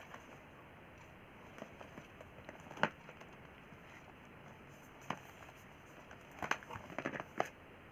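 Handling of a phone's cardboard box and paper packaging: faint, scattered light clicks and rustles. There is a sharper click about three seconds in, another about five seconds in, and a quick cluster of clicks near the end.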